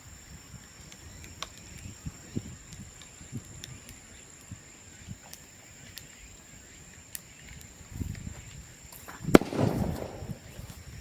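Burning bamboo in a bonfire crackling with scattered sharp pops, and one loud bang about nine seconds in. The bang is a sealed bamboo segment bursting as the air and steam trapped inside heat up.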